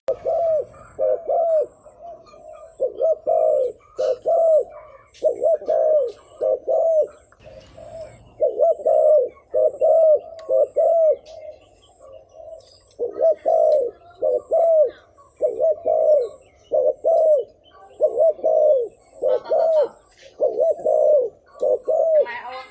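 Spotted dove cooing over and over in the rapid 'thúc gù' style used as a lure call: short coos in runs of two or three, with brief pauses between the runs.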